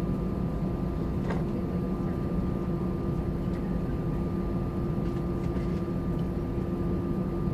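Steady engine and airflow noise of an Airbus A320-200 heard from inside the cabin: an even rumble with a constant low hum and a couple of fixed tones, neither rising nor falling.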